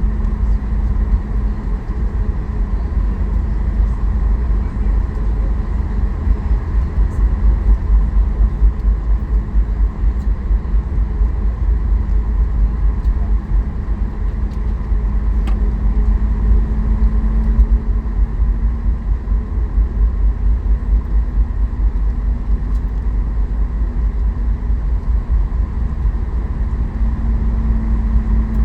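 Cabin noise of a Boeing 737 MAX 8 taxiing, heard from a window seat: the CFM LEAP-1B engines at idle give a steady hum with a constant tone, over a deep rumble from the aircraft rolling on the taxiway.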